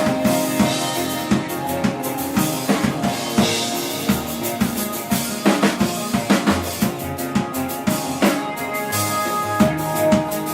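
Live band playing without vocals: a drum kit's kick and snare hits drive it over held, sustained instrument notes, with a busier run of drum hits midway through.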